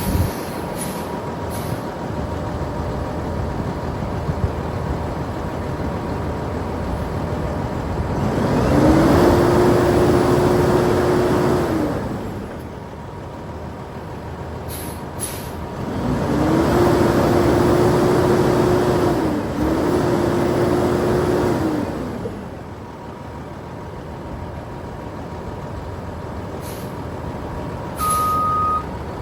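Kenworth W900 mixer truck's Cummins ISM diesel running, revved up twice, once about nine seconds in and again at about sixteen seconds. Each time the engine pitch rises, holds steady for a few seconds and falls back to idle. Near the end a reversing beeper starts beeping.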